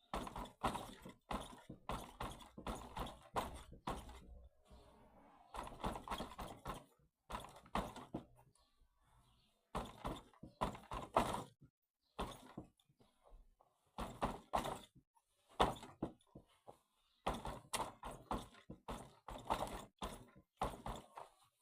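Fists punching a padded striking target in fast flurries, a thud with each blow, with short pauses between combinations.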